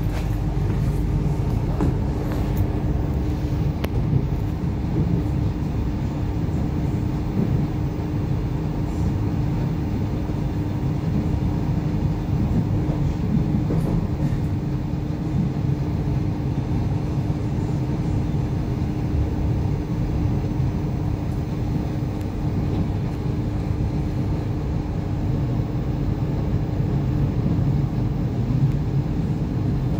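Cabin sound of an Irish Rail 8520 class DART electric train running along the line: a steady low rumble with a steady hum over it.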